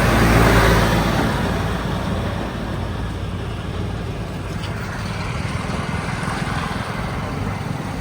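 Heavy diesel engine running, loudest in the first second, then settling to a steady lower rumble.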